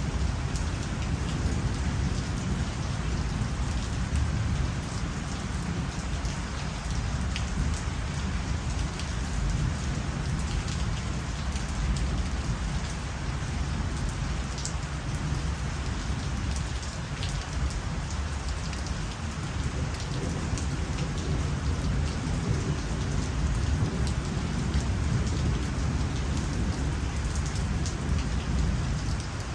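Steady heavy night rain falling on surfaces, with scattered individual drops ticking and a constant low rumble underneath.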